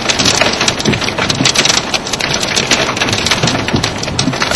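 Hailstones drumming on a car's body and roof, heard from inside the car: a dense, irregular clatter of sharp hits from large chunks of ice, over a steady wash of rain.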